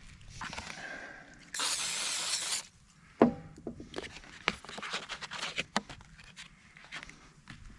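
A burst of aerosol cooking spray hissing for about a second, then scattered knocks and clatters of cookware being handled.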